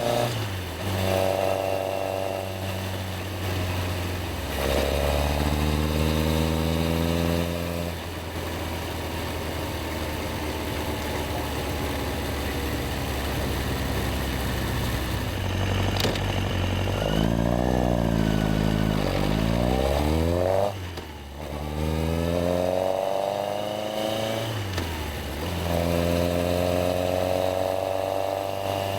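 Yamaha XJR1300's inline-four engine pulling through the gears, its pitch rising with each pull and dropping at each shift. A steadier cruising stretch runs through the middle. Around two-thirds through the pitch goes quickly up and down several times, then the engine pulls away again.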